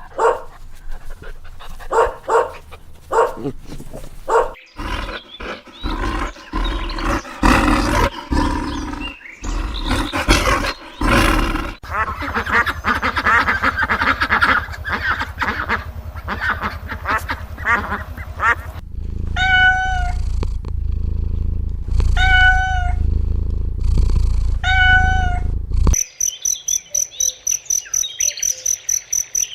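A run of different animal calls, cut one after another. In the second half come three evenly spaced pitched calls, and near the end a fast, regular chirping.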